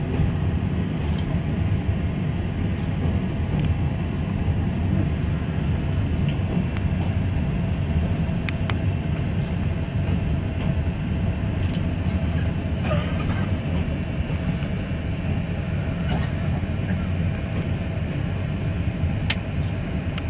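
Steady low rumble of a vehicle on the move, with a couple of short sharp clicks partway through.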